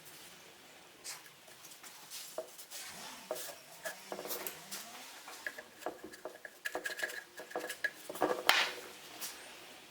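Irregular clicking and clattering of small hard objects being handled, busiest and loudest a little after the middle, with a brief high ring among the clicks.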